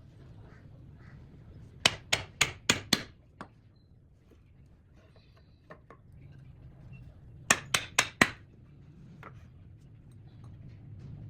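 Hammer striking wood in two quick runs: five blows about two seconds in, then four more past the middle, each run about four blows a second.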